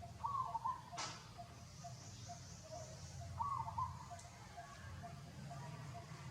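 Short pitched animal calls, twice about three seconds apart, over fainter repeated notes and a low steady hum, with one sharp click about a second in.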